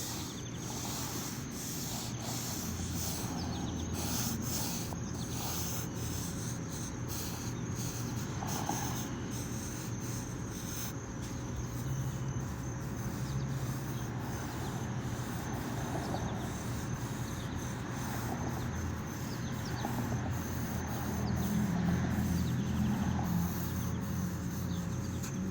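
Crickets or similar insects chirping steadily as a high, continuous outdoor background, with a low rumble beneath. Short, irregular scratches from a pen or pencil moving over paper run throughout.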